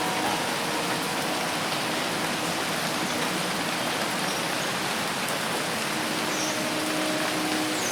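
Dense, steady rain falling in a forest, an even hiss without a break. Faint held tones come in near the end.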